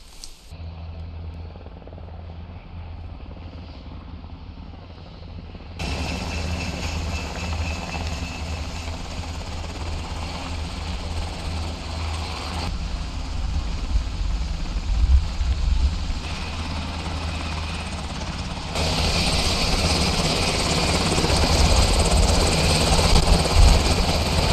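Steady heavy engine rumble from military machinery, changing abruptly at several cuts and growing louder in the later shots.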